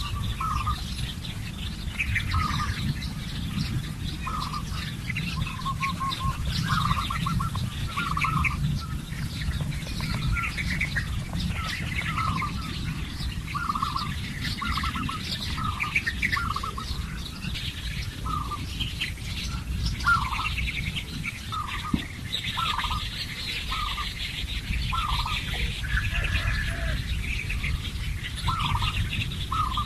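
Several birds calling, one repeating a short call about once a second while others chirp higher, over a steady low rumble.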